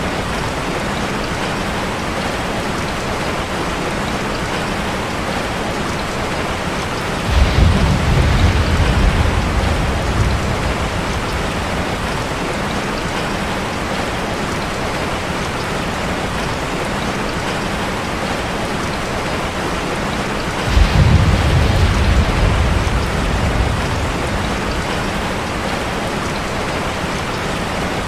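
Steady rain on a metal roof, with two low rumbles of thunder, one about seven seconds in and another about twenty-one seconds in, each starting suddenly and dying away over a few seconds.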